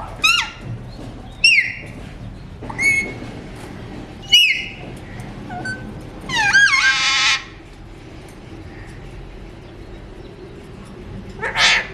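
Alexandrine parakeet calling: a run of short, sharp whistled calls with quick rising and falling pitch, the longest about two-thirds of the way through, then a lull and another call near the end.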